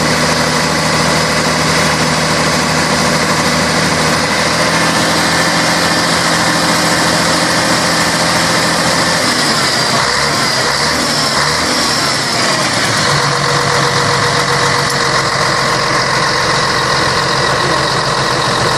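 Scania K113 bus's six-cylinder diesel engine idling steadily. About halfway through, its pitch shifts for a few seconds, then it settles back to an even idle.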